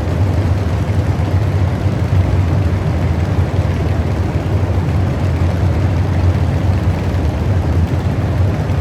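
Loud, steady low rumble of a truck engine running.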